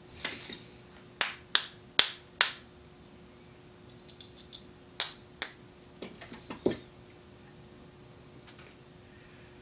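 Small metal hand tools clicking and tapping against the metal parts of an old wire recorder under repair. Four sharp clicks come in quick succession about a second in, with more scattered taps around the middle, over a faint steady hum.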